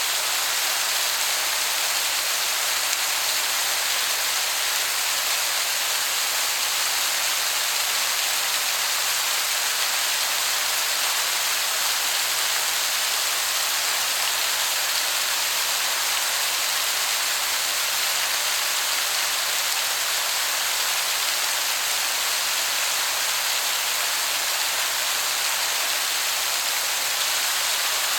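Waterfall: a steady, even rush of falling water, heard from far enough off that it sounds like heavy rain.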